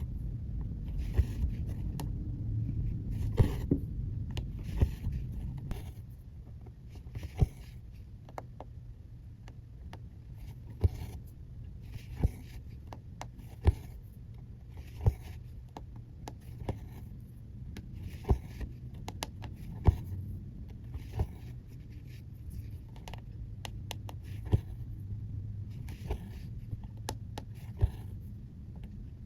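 Hand cross-stitching: a needle tapping and piercing the cross-stitch fabric and the embroidery floss drawn through it with a short soft swish, repeated about once a second or so, over a low steady rumble.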